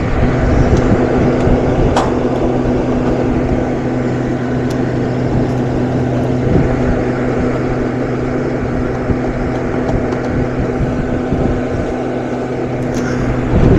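Steady machine hum over a low rumble, with a light click about two seconds in.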